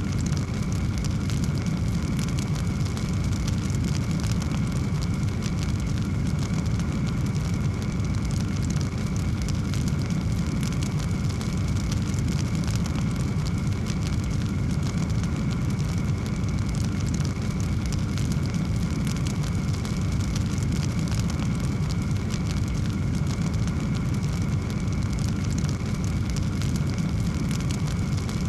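Fireplace wood fire burning steadily: a low rumble of flame with constant fine crackling.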